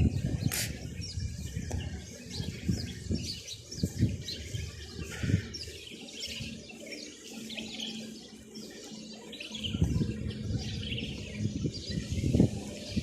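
Many small birds chirping and twittering all the way through, over uneven low rumbling that drops away in the middle and returns near the end, with a single sharp click about half a second in.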